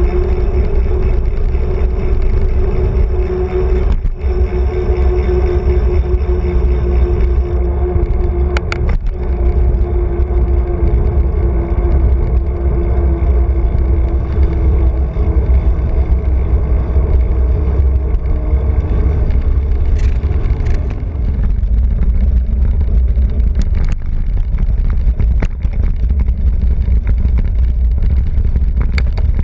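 Heavy low rumble of motion and wind on the microphone, with a steady motor-like hum that slowly falls in pitch and fades out about two-thirds of the way through, and a few sharp knocks.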